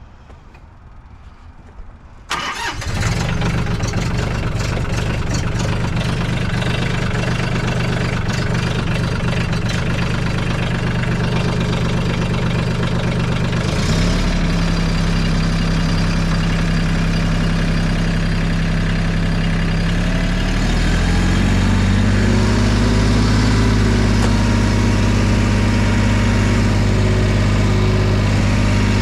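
An engine starts about two seconds in and runs steadily, stepping up in speed twice, at about fourteen and about twenty-one seconds.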